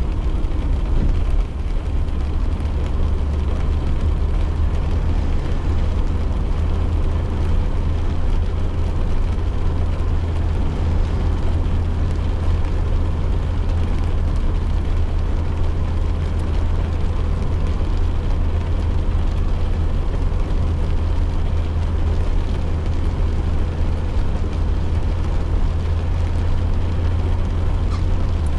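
Steady low rumble of a car driving on a wet road in the rain, heard from inside the cabin, with a light hiss of rain and tyres over it.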